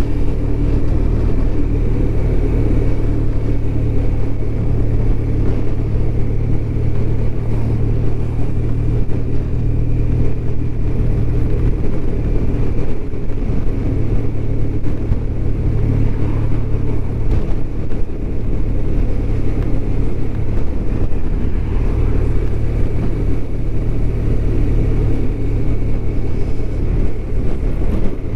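BMW R1200RT's boxer-twin engine running at a steady cruise, its hum mixed with wind and road noise from the moving motorcycle.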